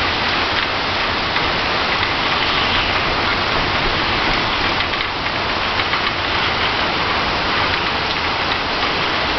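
Storm wind and heavy rain from a hurricane-force system, a steady dense rush that comes in gusts.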